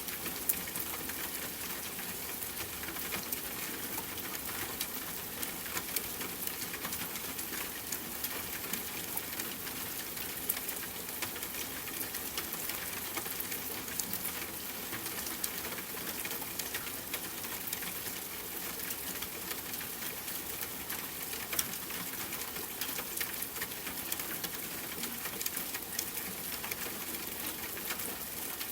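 Steady rain falling on a tent, an even hiss scattered with many small sharp ticks, mixed with the crackling of a campfire.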